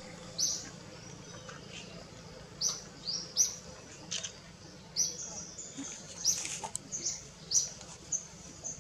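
Small birds chirping: a string of short, sharp, high chirps at uneven intervals, some followed by brief held whistles.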